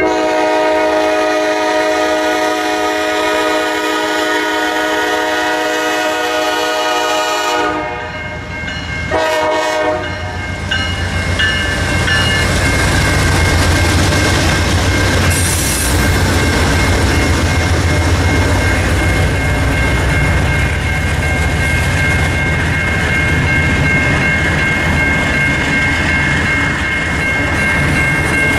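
Diesel locomotive air horn sounding one long blast of about seven seconds, then a short blast. After that the train passes close by with a loud engine rumble and the clatter of wheels over the rails.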